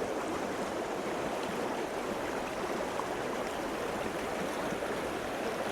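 Small stream running steadily, an even rushing and babbling of water.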